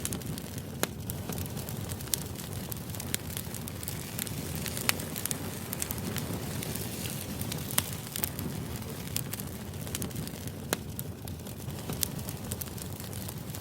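Crackling fire ambience: a steady low rumble with sharp, irregular pops and snaps every second or so.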